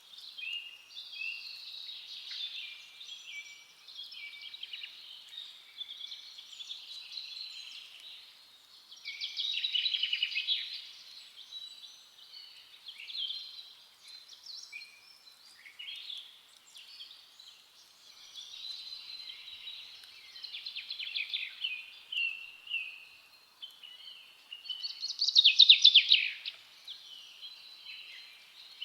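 Songbirds singing in a forest chorus: overlapping high chirps, short whistled glides and trills. Louder bursts of fast, rattling trilled song come about ten seconds in and again near the end.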